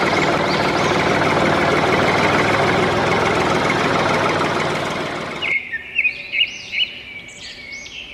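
Small electric motor of a DIY model tractor running with a steady high whine, then cutting off suddenly about five and a half seconds in. Birds chirping, several short calls, during the quieter end.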